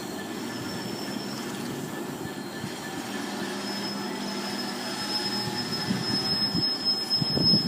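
Freight train rolling slowly, its wheels rumbling, with a thin high squeal from about three and a half seconds in as it slows almost to a stop. It grows louder, with a few knocks near the end.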